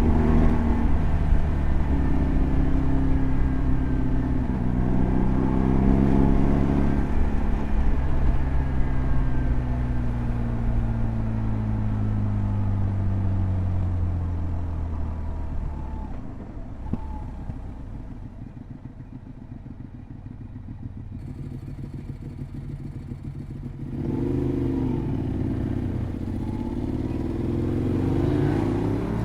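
2007 BMW R1200GS's boxer twin engine under way: the revs hold and rise over the first several seconds, fall away steadily for about ten seconds as the bike slows, run low and quieter for several seconds, then climb again near the end as it accelerates.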